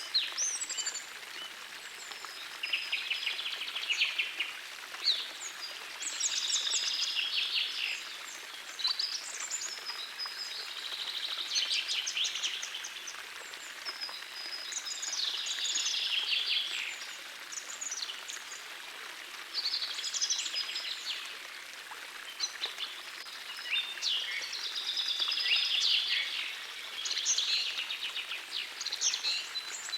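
A songbird singing short trilled phrases, repeated every few seconds, over the steady rush of a forest stream.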